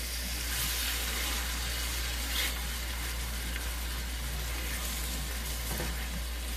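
Brown sugar, butter and orange juice glaze sizzling steadily in a skillet around beets as it cooks down to a syrup, an even hiss.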